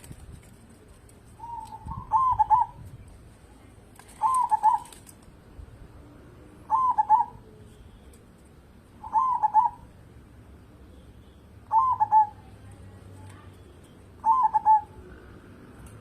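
Zebra dove (perkutut) singing: six short trilled cooing phrases, repeated about every two and a half seconds.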